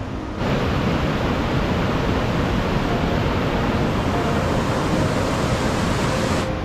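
Steady rushing of water, an even noise that starts abruptly about half a second in and cuts off suddenly near the end.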